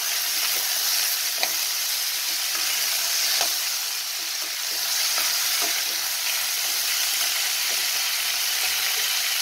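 Chopped vegetables and peas sizzling in oil in a kadhai, stirred with a slotted spatula, with a few light ticks of the spatula against the pan over a steady frying hiss.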